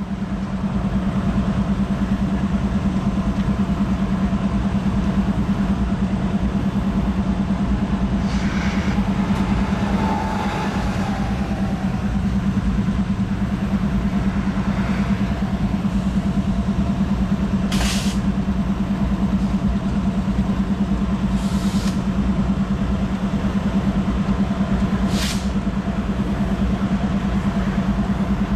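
A large engine running with a steady, loud drone and a constant low hum. Short hissing bursts come three times in the second half.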